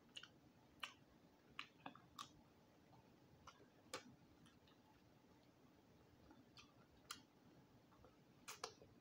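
Faint chewing of roasted quail, heard as scattered soft, irregular clicks and smacks from the mouth, with a slightly louder smack near the end as fingers are licked.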